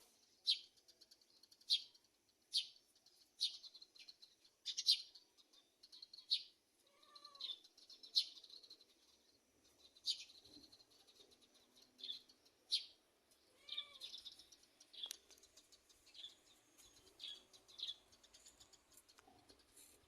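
Small bird chirping, short sharp high chirps repeated every second or two, with a couple of short lower calls in between.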